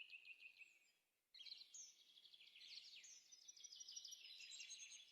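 Faint bird song: quick, high chirping trills that break off about a second in and start again a moment later.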